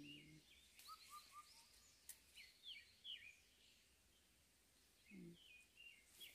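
Faint birdsong: small birds repeating short, quick chirping notes over and over, with a couple of soft clicks.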